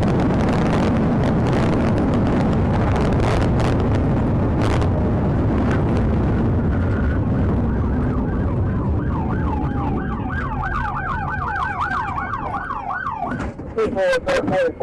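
Police cruiser in pursuit at speed, with heavy road and wind noise, then its siren on a fast yelp, warbling about three times a second, for several seconds past the halfway point. A few sharp bangs come near the end as the noise of driving drops away.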